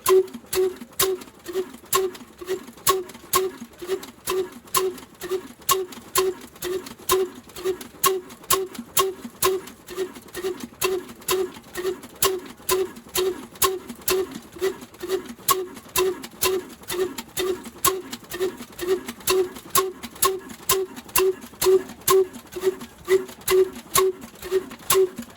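Old slow-running black oil diesel engine running steadily, with an even beat of about two firing strokes a second, each with a sharp knock.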